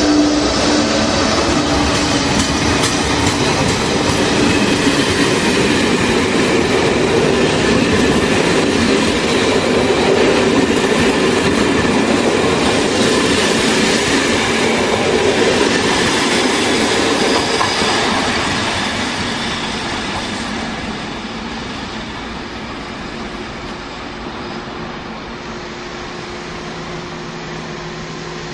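A locomotive-hauled passenger train running past close by: rumble and wheel noise on the rails, with a steady hum as the locomotive goes by. It stays loud until about two-thirds of the way through, then fades as the coaches pull away.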